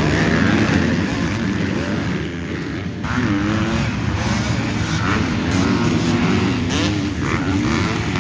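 Dirt bike engine revving hard, its pitch rising and falling again and again as the rider works the throttle.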